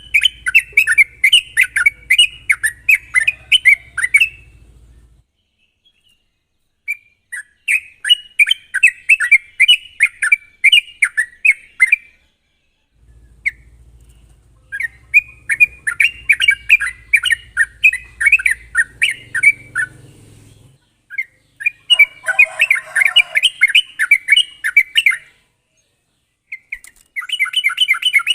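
Yellow-vented bulbul (trucuk) singing in repeated bursts of rapid, sharp chattering notes, about three a second. Each burst lasts around four seconds, with a short pause before the next.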